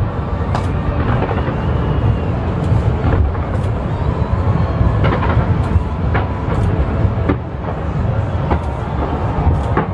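Fireworks display: a continuous deep rumble of booms with sharp cracks going off about once a second.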